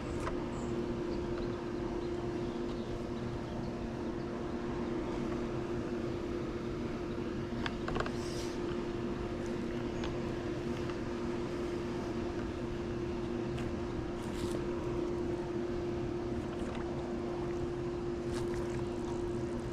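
Swimming pool pump motor running with a steady hum over rushing water noise, drawing water through the vacuum line. A few light clicks or knocks near the middle.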